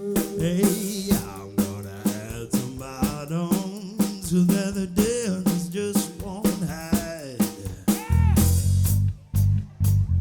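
Live soul band playing: drum kit with snare and rimshot hits under a lead line that bends up and down in pitch. A heavy bass line comes in about eight seconds in.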